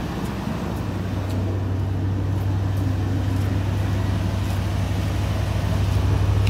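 2006 Toyota Tundra engine idling steadily shortly after a cold start.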